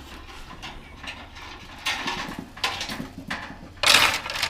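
Small objects being handled and rattled while being sorted, in short irregular clatters, with a louder clatter about four seconds in.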